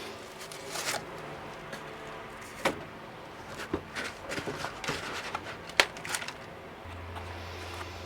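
Repotting seedlings by hand: plant pots and soil being handled, with scattered knocks and taps over soft rustling, the sharpest tap a little before the end.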